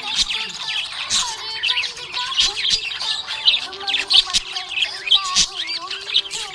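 Budgies chirping and warbling in a busy, unbroken stream of short rising and falling chirps, with a few sharp clicks mixed in.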